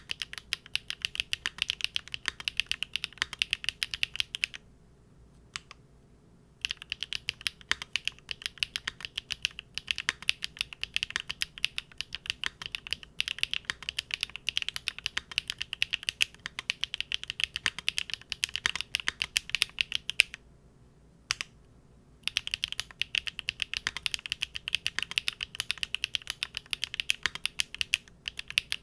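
Fast typing on a Linworks Big Whale custom mechanical keyboard with GEON Raw Zero switches on a polycarbonate plate: rapid keystrokes, with two short pauses about five and twenty seconds in.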